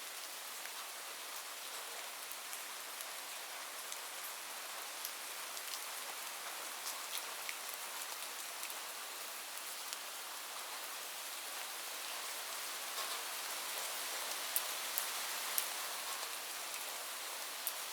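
Heavy rain on a roof: a steady hiss of rainfall with sharp individual drop taps scattered through it, a little louder in the second half.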